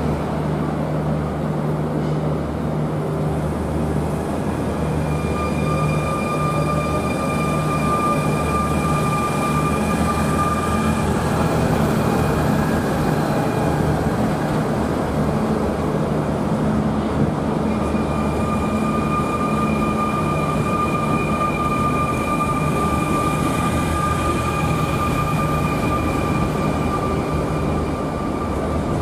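SNCF Z 23500 double-deck electric train moving slowly past along the platform, with a steady rumble. A high, even-pitched whine comes in twice, for several seconds each time.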